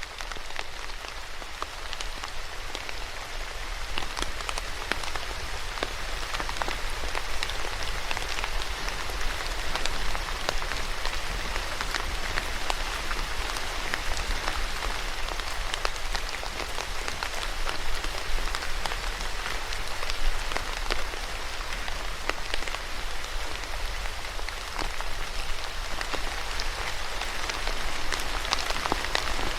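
Steady rain falling, many individual drops pattering on a surface over a continuous wash of rainfall, with a low steady rumble underneath.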